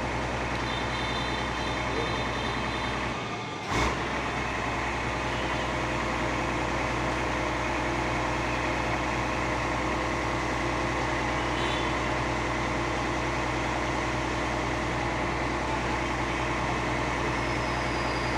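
Fire truck engine running steadily, with an even low hum. A few seconds in there is a brief break and a short knock.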